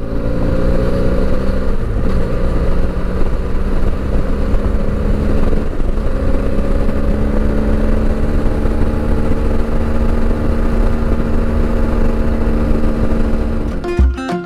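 Motorcycle engine running at a steady cruising speed, with a constant low rumble of wind and road noise. The pitch shifts slightly a couple of times, and guitar music starts near the end.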